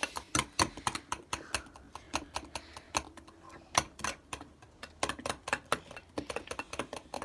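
A run of quick, irregular clicks and taps, several a second.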